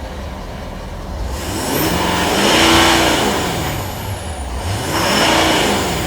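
Ford 6.7L Power Stroke turbodiesel V8 in a 2011 F-350 Super Duty being revved twice from idle, the engine pitch rising then falling back each time.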